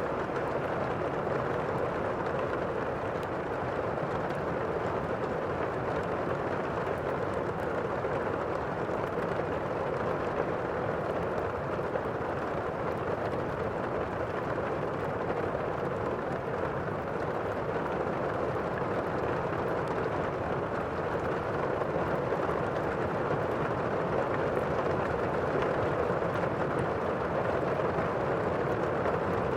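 Steady thunderstorm rain as a constant rushing noise, with faint scattered crackles from a fireplace.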